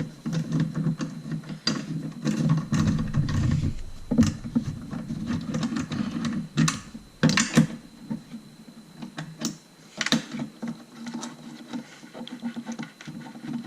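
Hand tools working on engine-bay bolts: rapid clicking and metal clinks with handling noise, and several sharp knocks around four, seven and ten seconds in.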